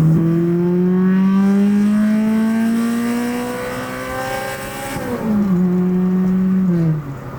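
Nissan SR20VE inline-four engine of a 1993 Nissan NX2000 accelerating hard, its revs climbing steadily for about five seconds. The revs then drop sharply with a gear change, hold, and fall away near the end as the throttle is lifted.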